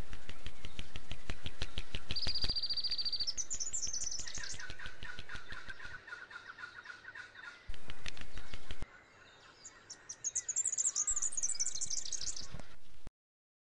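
Woodland birdsong: high chirps, quick trills and a warbling call. It is overlaid twice by a loud, rapid crackling rustle, once at the start and once around eight seconds in. All sound cuts off abruptly near the end.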